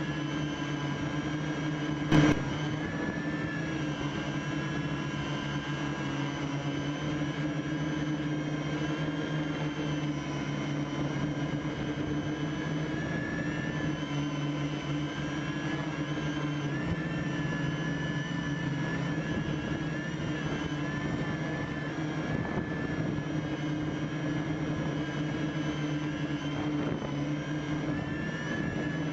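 Homemade quadcopter's electric motors and propellers whining steadily, heard from the camera strapped beneath it, the pitch wavering slightly as the craft adjusts in flight. A sharp click about two seconds in.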